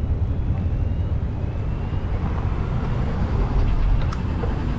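Steady, loud low rumble of wind buffeting the microphone while riding a bicycle, mixed with road and traffic noise. A few faint clicks come near the end.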